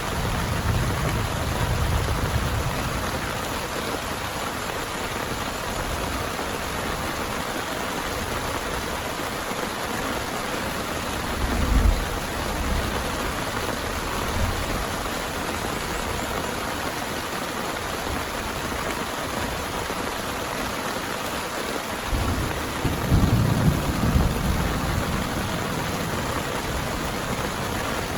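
Heavy rain falling steadily, with low rolls of thunder: one at the start, a short one a little before halfway, and a louder one near the end.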